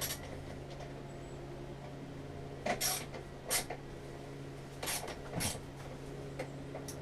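A handful of short, sharp clicks and clinks of hand tools on metal as bolts on the mower engine are tightened down, over a steady low hum.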